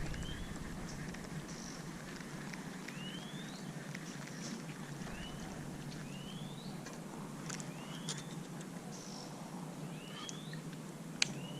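Outdoor ambience: a steady background hiss with a short rising chirp every second or two and a few light clicks.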